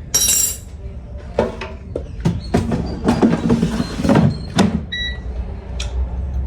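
Digital air fryer's fan cuts out at the end of its cooking cycle, followed by a string of irregular clicks and knocks from the machine being handled, and a few short beeps.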